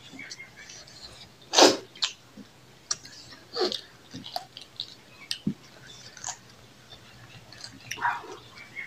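Close-up eating sounds of two people eating rice and curry with their hands: wet chewing, lip smacks and scattered small clicks. One sharp, much louder burst comes about a second and a half in.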